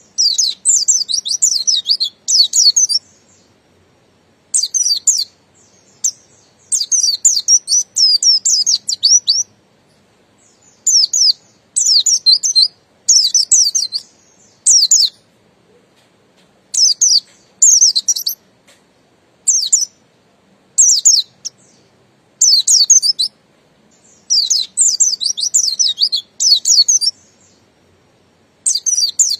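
White-eye (pleci, buxtoni form) singing in its long, continuous 'ngalas' style: phrases of rapid, high, twittering notes about one to three seconds long, repeated with short pauses between them.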